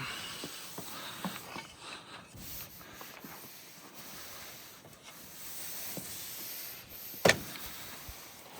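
Faint rubbing and scraping with a few light knocks, then one sharp click about seven seconds in, as something on the truck is wiped down and handled.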